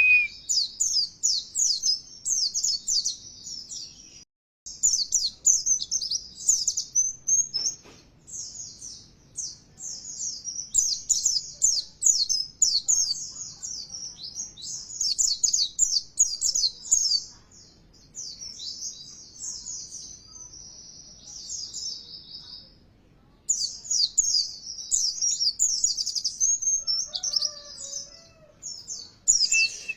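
White-eye (pleci) singing a long, rapid, high twittering song, broken by brief pauses about four seconds in and again near 23 seconds.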